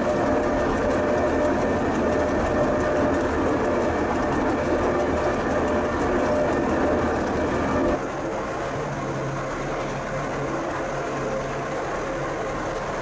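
Pilatus Railway electric rack railcar running on the steep cog line, with a steady rumble and rattle. About eight seconds in the sound gets quieter and a low steady hum comes in.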